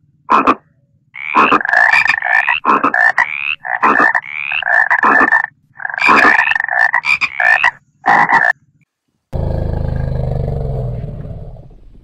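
A frog croaking: a run of loud, rapid calls in about eight bursts, some rising in pitch. After a short pause, a loud low sound begins and fades away over about three seconds.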